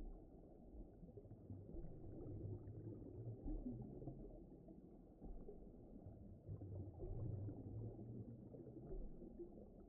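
Low, muffled underwater-style ocean rumble that swells and eases in slow waves, with all its sound below about 1 kHz.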